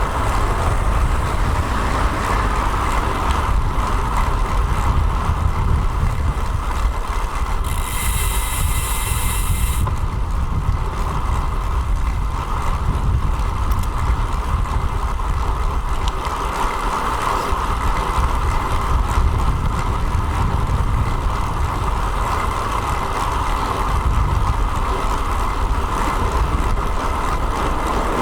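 Wind buffeting the microphone of a bike-mounted action camera during a road-bike ride, with a steady road and tyre hum. About eight seconds in, a high-pitched sound lasts for about two seconds.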